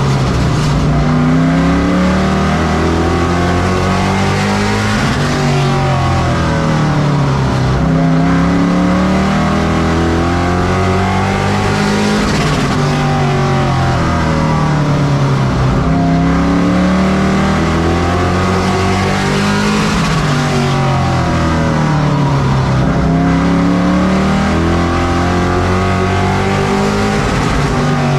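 Several race trucks' engines running at full racing speed on a short oval. Their pitch climbs and falls over and over as they accelerate and lift, with more than one engine heard at once.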